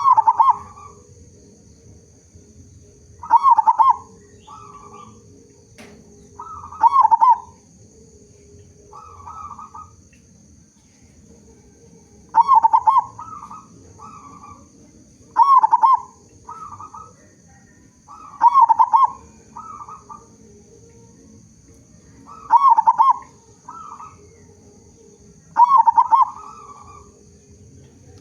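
Zebra dove (perkutut) cooing song: a phrase about every three seconds, each a loud warbling coo followed by a couple of softer notes, repeated about nine times.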